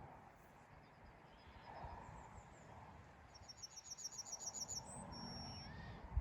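Yellowhammer singing: a quick run of repeated thin, high notes followed by a longer drawn-out final note, with fainter song before it. A short thump right at the end.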